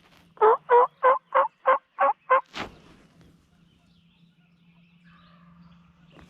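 A series of seven quick turkey yelps, evenly spaced at about three a second, each note breaking downward in pitch, followed by one shorter, sharper note. Afterwards a faint steady low hum remains.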